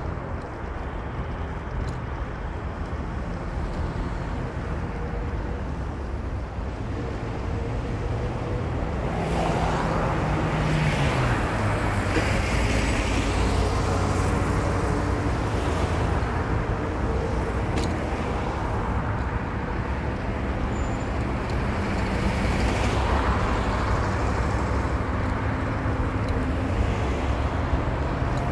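A car driving in town: steady engine and road rumble, with the engine note dropping about eleven seconds in and passing traffic swelling now and then.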